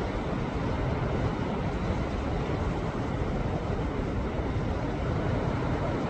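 Sea waves surging against shoreline rocks: a steady, rumbling wash of surf with no single crash standing out.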